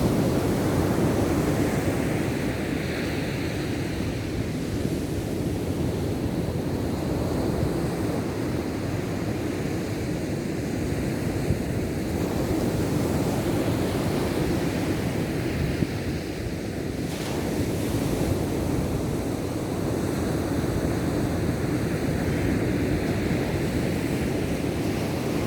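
Ocean surf: waves breaking and washing up the beach in a steady rush that swells and eases slowly.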